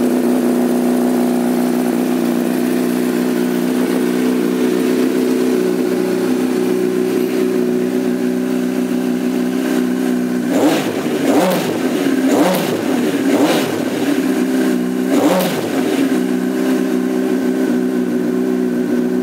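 2006 Honda CBR1000RR inline-four idling steadily through a Two Brothers slip-on exhaust, then blipped about five times in quick succession about halfway through before settling back to idle.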